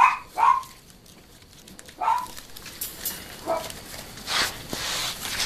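Jack Russell terriers giving four short, sharp barks about a second or so apart, followed near the end by a brief scuffling noise.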